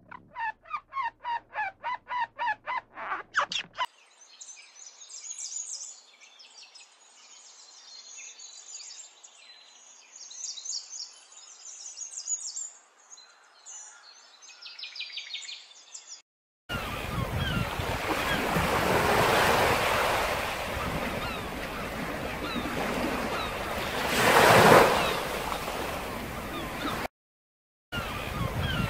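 A red squirrel's rapid chattering call, a string of short squeaky notes about three a second, for the first few seconds. Then faint high chirping of small birds, and from a little past halfway, waves washing onto a sandy beach, swelling loudest near the end.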